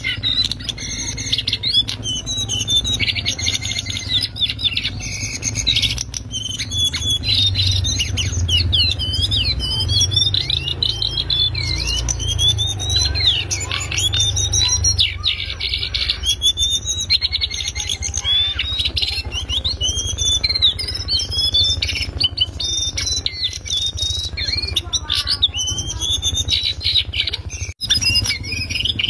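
Cingcoang coklat (lesser shortwing) singing a fast, unbroken warbling song of quickly rising and falling whistled notes, over a steady low rumble.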